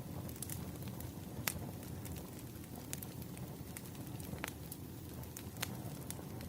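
Firewood burning with a steady low rumble and sharp crackling pops, four clear ones spaced about a second or so apart.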